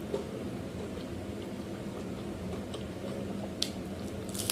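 Close-up eating sounds: soft chewing with a few sharp mouth clicks, one just after the start and two near the end, over a steady low hum.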